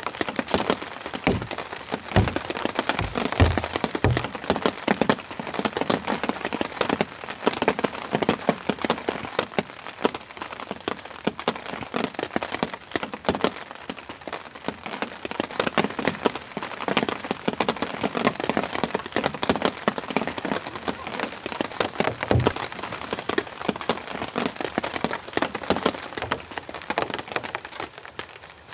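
Heavy rain falling on a nylon tarp and the forest around it: a dense, steady patter of drops, with a few heavier low thuds in the first few seconds and one more about two-thirds of the way through.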